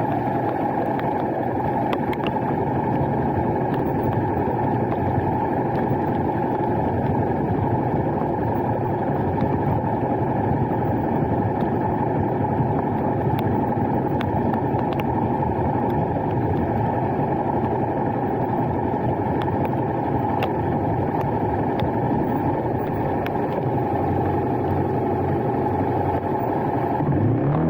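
Steady low rumble of a running vehicle, unbroken throughout, with faint scattered ticks over it.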